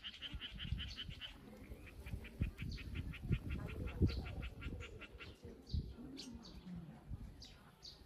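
A small songbird singing fast trills of repeated high notes, about eight a second: a short trill at the start and a longer one from about two seconds in, over a low rumble and soft thumps.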